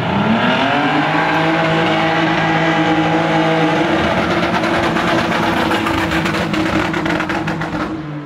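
Toyota Cressida's engine, running on Crisco vegetable shortening in place of motor oil, revving up at the start and then held at high revs as the car is driven hard, a steady high engine note.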